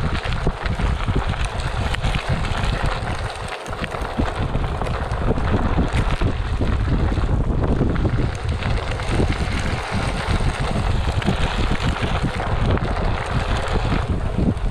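Wind buffeting hard on the action camera's microphone over the rolling noise of a Onewheel XR's tire on a dirt trail.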